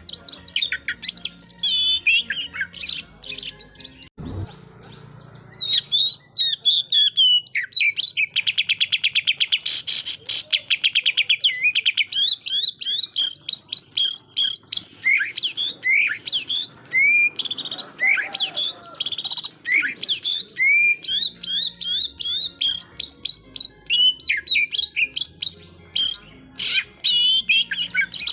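Oriental magpie-robin (kacer) singing a loud, varied song of quick whistles and chirps, with a fast rattling run of repeated notes about eight seconds in; this is the full 'tembakan' song used to provoke rival magpie-robins. The song breaks off briefly after a low thump about four seconds in.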